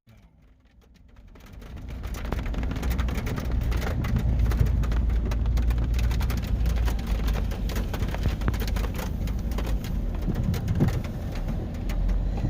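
Rain striking a car, heard from inside the cabin as many irregular sharp ticks over the low steady rumble of the car's engine and road noise. The sound fades up over the first couple of seconds.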